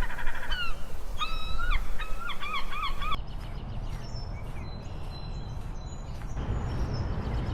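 Gulls calling: loud wailing calls, then a quick run of repeated laughing notes, fading to fainter calls after about three seconds.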